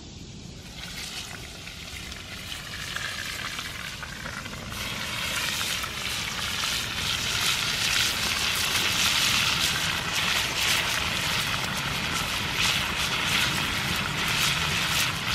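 Pieces of alligator gar frying in very hot oil in a skillet over a campfire, a steady sizzle with crackling. The sizzle grows as pieces go into the oil and is loudest from about five seconds in.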